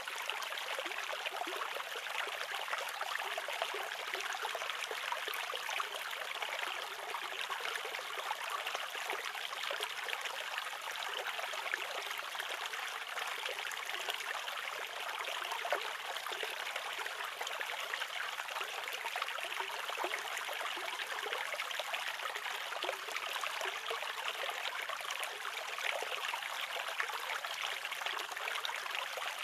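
A small, shallow stream running and trickling steadily.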